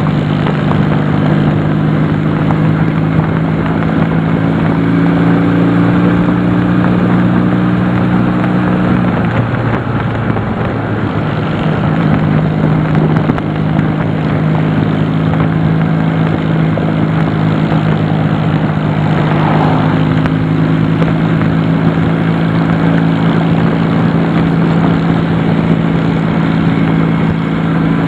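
Honda CD175 motorcycle's parallel-twin engine running steadily under way, over road and wind noise. About nine seconds in the engine note breaks off for a couple of seconds, then comes back at a steady pitch.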